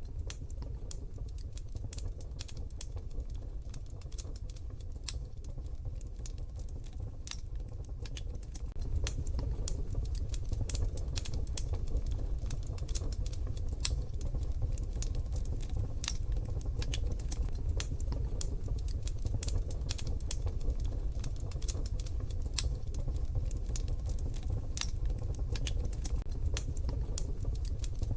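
Wood fire in a wood-burning stove crackling, with irregular sharp pops and snaps over a steady low rumble that grows a little louder about nine seconds in.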